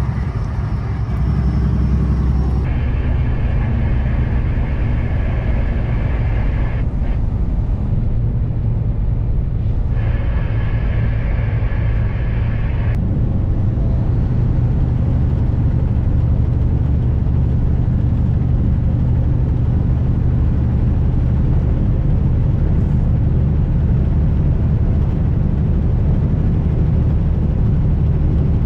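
Kenworth W900 semi truck's diesel engine running steadily at cruise, a deep continuous drone. A higher band of road or wind noise comes in twice for a few seconds each in the first half.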